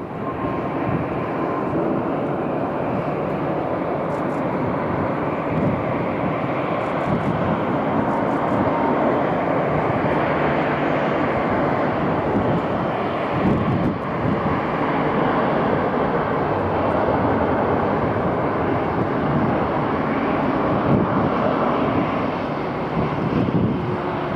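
Jet airliner engines running loud and steady, a dense rushing noise that holds level throughout.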